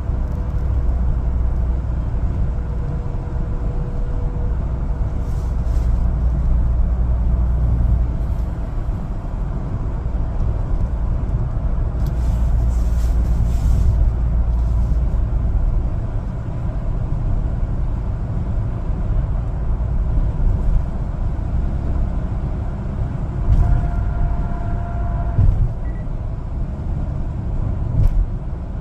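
One-ton LPG cargo truck being driven: a steady low engine and road rumble, with a short hiss about midway, a brief tone about three-quarters of the way through, and a few knocks near the end.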